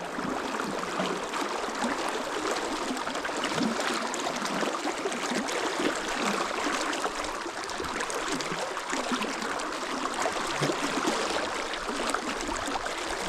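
River water flowing steadily, an even rushing babble of current.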